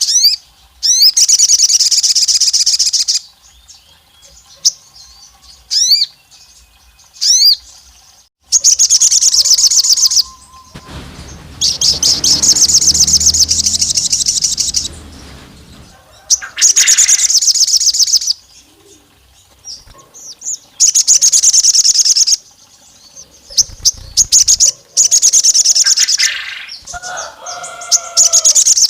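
A sogon bird calling in loud bursts of rapid, rattling high notes, each burst lasting about two seconds, with short pauses and a few quick rising whistles in between.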